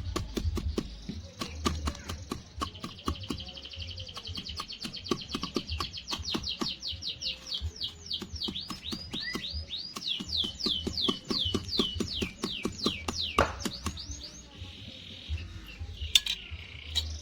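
A bird chirping a fast run of sharp descending notes, over repeated knocks and taps.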